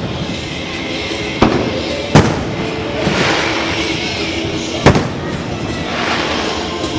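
Fireworks shells bursting: three sharp bangs, the first about a second and a half in, the next under a second later, and the third near five seconds, over a continuous bed of crackle and background music.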